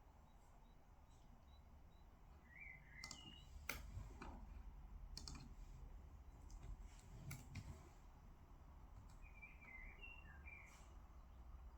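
Quiet room tone with a handful of faint, irregular desk clicks and taps, most of them in the middle of the stretch. A small bird chirps twice in short bursts, about two and a half seconds in and again near the end.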